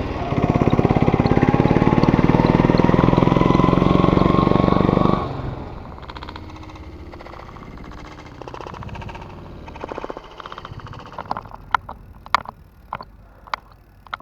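Motorcycle engine running hard with a rising pitch as it accelerates, cutting off suddenly about five seconds in. After that comes a much quieter rumble with scattered sharp clicks.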